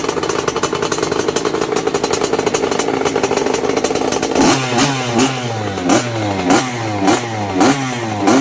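Lem Motor XXL 50cc two-stroke pit bike engine running at a steady speed, then from about halfway being blipped repeatedly, each rev rising sharply and dropping back, about two a second.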